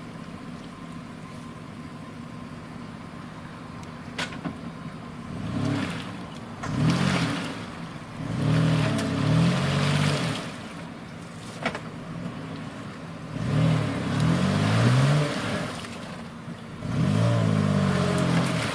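4x4 SUV engine revving in about five bursts of one to two seconds each, its pitch rising and falling, over a steady lower running sound. Two brief sharp knocks come in the quieter stretches.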